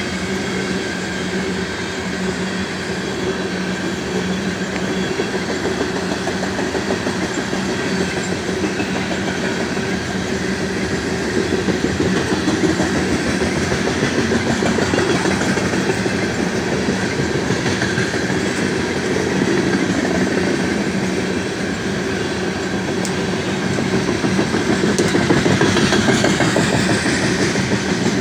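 Loaded coal train's gondola cars rolling past at speed: a steady rumble of steel wheels on the rails with rapid clicking of the wheels over the track, swelling a little about halfway through and again near the end.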